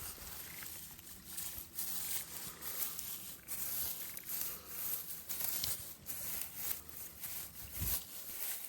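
Irregular rustling and crinkling noises, many short strokes in quick succession.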